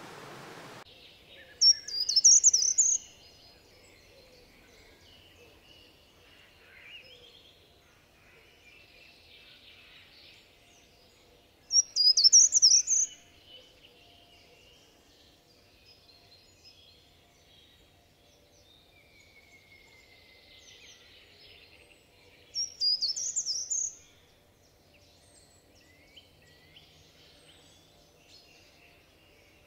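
Birdsong: one loud, short, high bird phrase repeated three times about ten seconds apart, over fainter chirps of other birds. A steady hiss stops about a second in.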